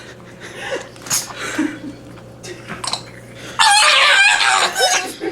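A dog's high-pitched, wavering whine-howl lasting about a second and a half, starting about three and a half seconds in, after a few quieter short sounds.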